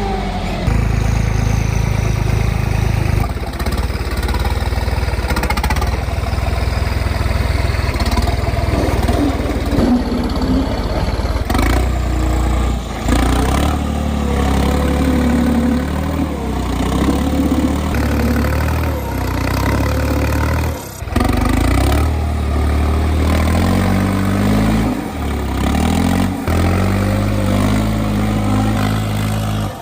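Tractor engine running and revving, its pitch shifting in steps, with several abrupt breaks where the sound changes suddenly.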